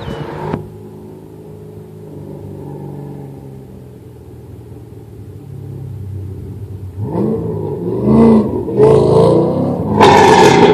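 2010 Mustang GT's 4.6-litre V8 through an off-road X-pipe and Super 10 mufflers, idling steadily, then revved in several quick throttle blips from about seven seconds in, the last ones the loudest.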